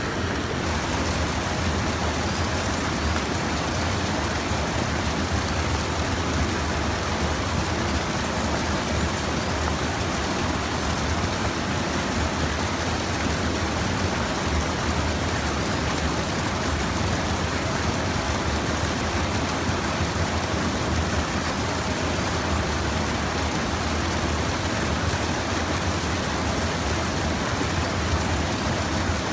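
Steady rush of a stream's flowing water, an even noise with no breaks.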